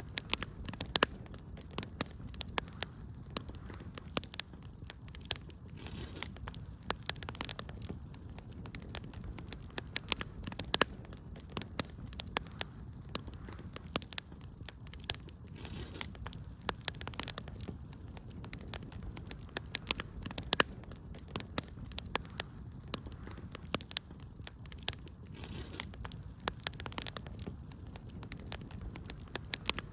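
Wood fire in a fireplace crackling and popping: many sharp irregular snaps over a steady low rumble of the flames.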